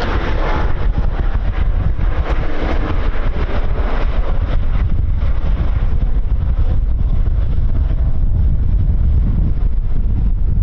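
Strong wind buffeting the microphone: a steady low rumble, with a hiss above it that thins out over the first half.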